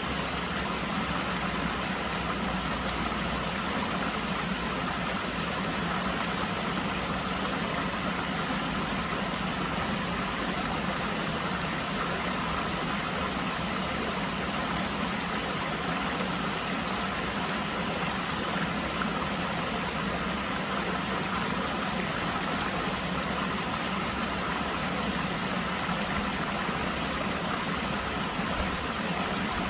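Mill stream flowing over stones: steady rushing and babbling water.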